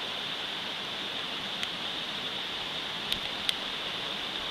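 Steady rush of a mountain stream, with a few sharp pops from a wood campfire: one about a second and a half in, then two close together a little after three seconds.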